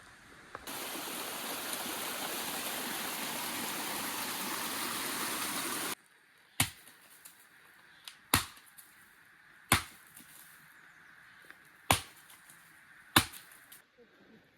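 Running water rushes steadily for about five seconds, then cuts off suddenly. Five single sharp knocks follow, spaced slowly apart: a knife chopping vegetables on a cutting board.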